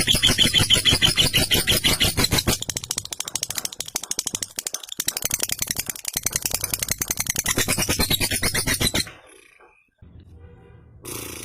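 Lovebird's long 'ngekek' chatter: a very fast, unbroken run of harsh repeated notes that stops abruptly about nine seconds in, followed by a short lull.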